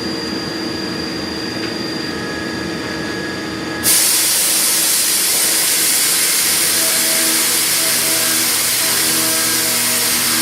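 CNC machining centre milling a pocket with a high-feed milling cutter: steady machine tones, then about four seconds in a loud hiss starts suddenly and holds, with a tone pulsing on and off beneath it.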